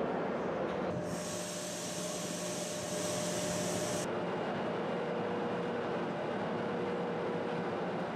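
Steady hum of a Trenhotel sleeper train standing at a station platform with its electric locomotive. A high hiss joins in about a second in and cuts off suddenly about three seconds later.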